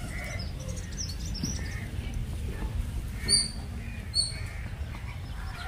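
Small birds chirping over and over, with two short, sharp bird calls about three seconds in and again a second later, over a steady low rumble.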